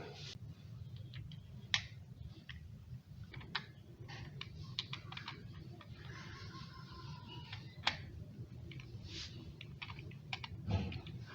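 Irregular small clicks and taps of an electric kettle's lid and its parts being handled and worked on, over a low steady hum.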